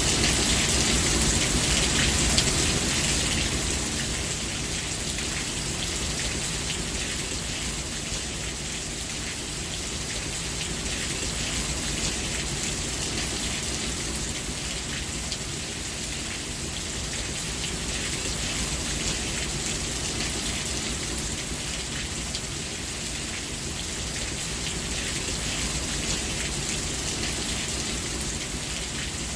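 Steady rain falling, an even hiss of drops on surfaces, slightly louder in the first few seconds and then constant.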